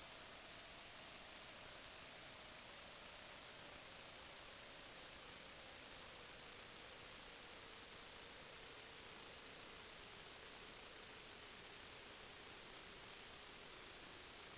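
Steady high-pitched electronic whine over a constant hiss, with a fainter lower tone that slowly falls in pitch.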